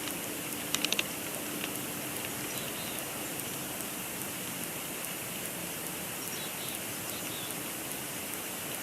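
Steady hiss of snowfall and wet precipitation pattering on an outdoor nest-cam microphone in a snowstorm, with a quick cluster of four sharp clicks a little under a second in.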